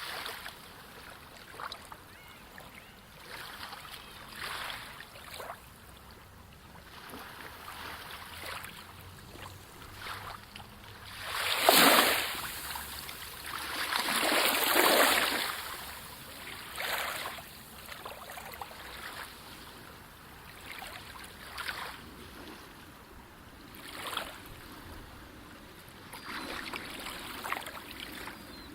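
Sea waves washing in and splashing in an irregular run of surges, the two loudest about twelve and fifteen seconds in.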